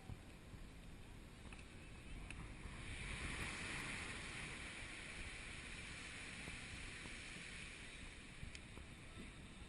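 Faint hiss of moving water and waves with some wind. It swells into a brighter wash about three seconds in, then settles to a steady lower hiss.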